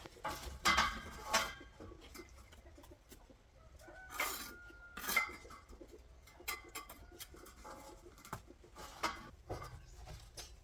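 Chickens clucking and calling in short, irregular bursts, with a held note about four seconds in and scattered sharp clinks between the calls.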